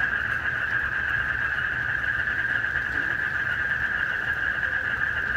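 A dense, steady night chorus of frogs and crickets, a continuous high trilling that holds without a break, over a low rumble.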